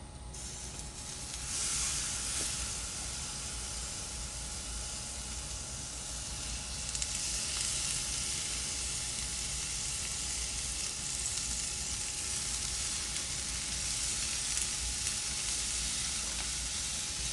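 Chicken wings in a soy sauce and Italian dressing marinade sizzling on a hot grill grate. The sizzle swells about a second and a half in and again about seven seconds in, then holds steady.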